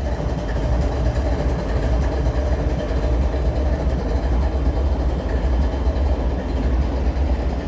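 GE ES44AH diesel-electric freight locomotive idling at standstill: a steady, even low rumble that does not change.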